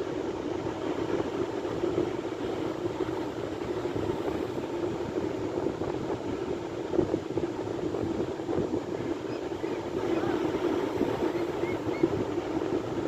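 Sea waves: a steady wash of surf with no distinct breaks.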